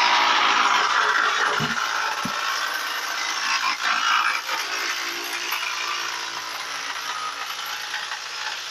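Woodworking machine running as it works a wooden board: a loud, steady rasping noise that slowly eases off, with two short knocks in the first couple of seconds.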